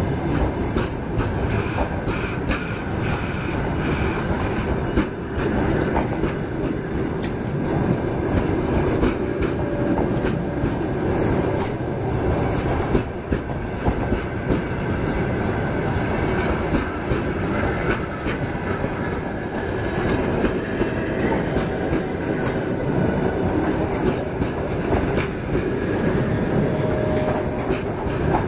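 Passenger coaches of a departing train rolling steadily past, their wheels clicking over the rail joints amid a continuous rumble of the running gear.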